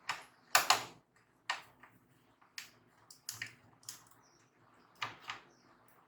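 Irregular sharp clicks and taps of laptop parts being handled and fitted during reassembly, about eight in all, the loudest a quick cluster about half a second in.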